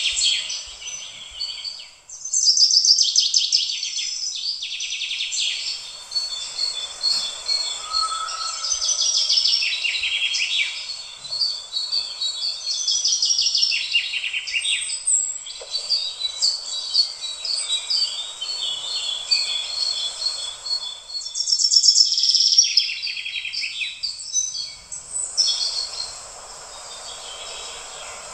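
Birds chirping and trilling in quick runs of repeated notes, over a steady hiss.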